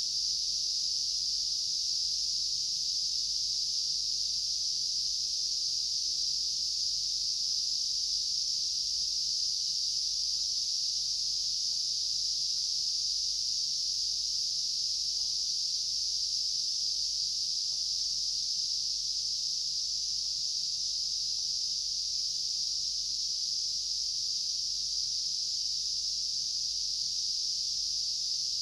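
A steady, unbroken chorus of summer insects, a dense high-pitched hiss that neither pauses nor changes throughout.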